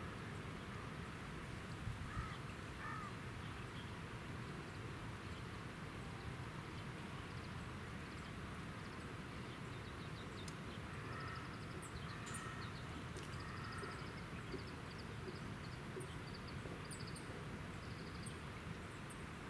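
Birds calling over a steady background hiss: a few lower call notes early on and again past the middle, then a run of short, high chirps repeated through the second half.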